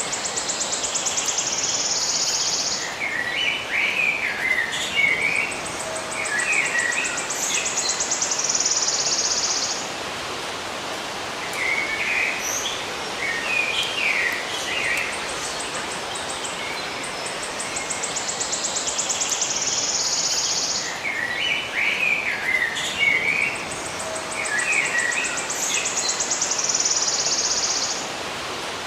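Birdsong over a steady hiss: high, fast trills alternating with clusters of chirps, the same sequence repeating about every 18 seconds.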